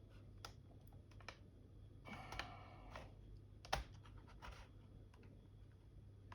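Faint plastic clicks and scraping from prising the keyboard bezel off a Dell Latitude E7440 laptop, its clips working loose. The sharpest click comes a little under four seconds in.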